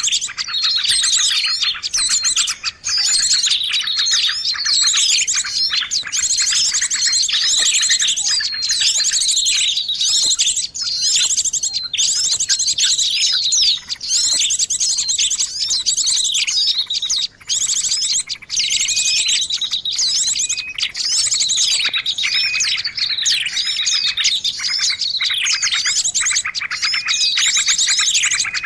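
A dense, unbroken chorus of many small songbirds chirping and twittering over one another, with fast trills and short rising and falling notes: a mixed bird-luring (pikat) recording made to draw in small birds.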